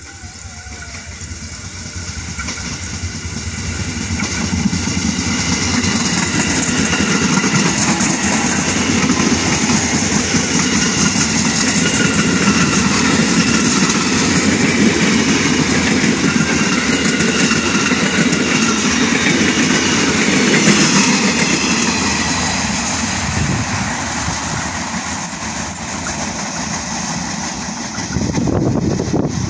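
Electric multiple-unit commuter train approaching and passing close by, the running noise of its wheels on the rails and its motors growing loud over the first several seconds, then fading as it moves away. It is cut off near the end by a different steady sound.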